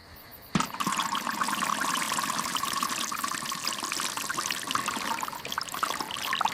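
Running water, starting suddenly about half a second in and going on steadily with a light crackle.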